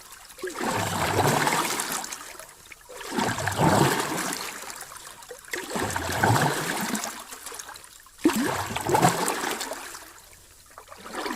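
Sea waves washing in on a shore, four surges of rushing water about every two and a half seconds, each swelling and then fading away.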